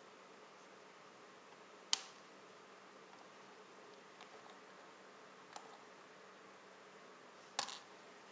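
Faint steady hiss and hum, broken by sharp clicks: a loud one about two seconds in, a softer one past the middle, and a quick double click near the end.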